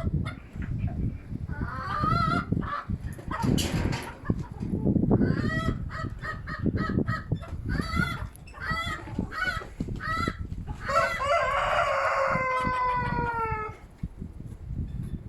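Chickens clucking in a run of short, repeated calls, then a rooster crows once, a long call falling slightly in pitch near the end. Strong wind rumbles on the microphone throughout.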